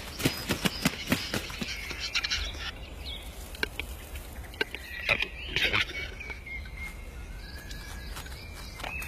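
Capercaillie cocks fighting: a quick run of sharp wing claps in the first second or so, then scattered wing flaps with short rasping bursts and faint calls.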